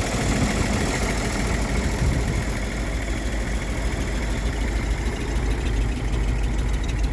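Late-1960s GMC 292 inline-six engine in a 1954 GMC 250 truck, idling steadily. It runs fairly well, though the owner says it needs a carburetor.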